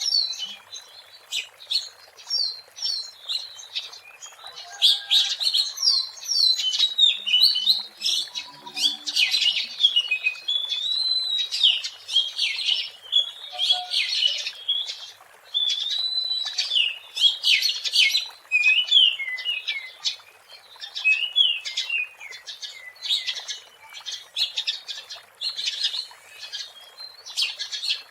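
Oriental magpie-robin (kacer) singing: a continuous, varied run of quick whistled phrases, rapid chips and swooping notes with hardly a pause.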